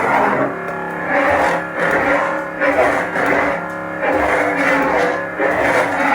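A custom lightsaber's sound board playing one of Lord Blako's Crystal series sound fonts. The blade's steady electric hum runs under several swelling swing whooshes as the saber is swung back and forth.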